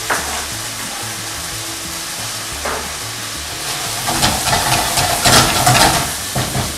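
Chicken pieces with freshly added diced peppers and onion sizzling in oil in a frying pan. From about four seconds in, a silicone spatula scrapes and stirs them round the pan.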